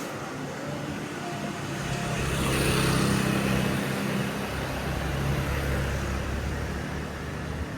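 Street traffic with a motor vehicle passing close by: its engine and tyre noise grows to a peak about three seconds in, then a low engine rumble fades away.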